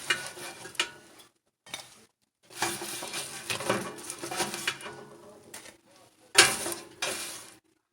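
Cooking utensils clattering against a pan, scraping and knocking in short spells as cooked food is lifted out, with one sharp clank about six and a half seconds in.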